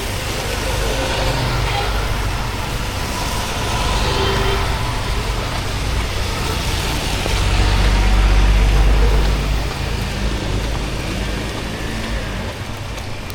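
Street traffic in the rain: a steady hiss of rain and wet road, with a vehicle's low rumble swelling to its loudest about eight seconds in, then fading.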